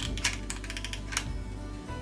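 Soft background music with about three sharp clicks and taps from handling a buckeye and glue gun against a straw wreath.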